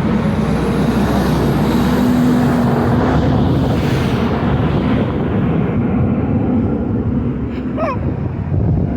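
Loud, steady rumble of wind and passing road traffic, with a low engine-like hum that fades after about three seconds.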